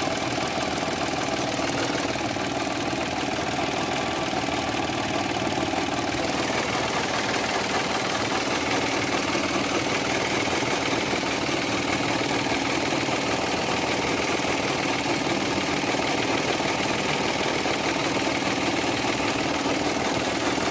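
Car engine idling steadily with a constant noise from the belt-driven accessories, the sign of a worn pulley bearing that the owner is tracing among the alternator, A/C compressor and water pump.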